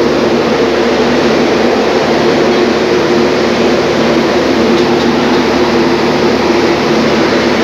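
Passenger train at the platform: a loud steady rumble with a constant low hum.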